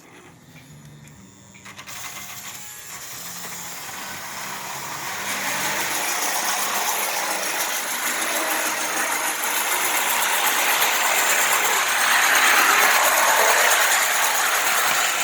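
Lionel Polar Express toy train running on its track: the electric motor whirring and the wheels rattling over the rails, growing steadily louder over the first ten seconds or so.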